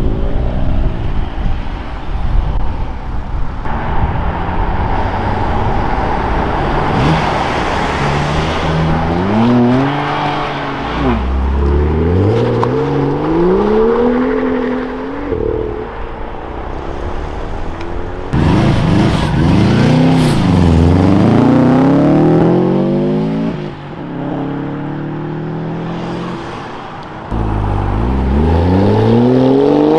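Modified cars accelerating away one after another, their engines revving up hard with rising engine notes. There are about three separate pulls, one from about ten seconds in, one near twenty seconds with a dip and rise again, and one starting near the end.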